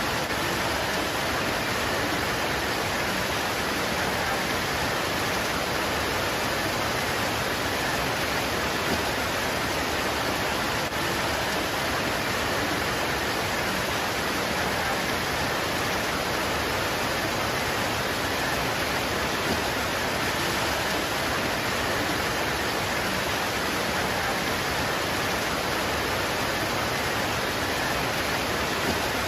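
Rain pouring on leaves: a steady, even hiss with no single drops or thunder standing out.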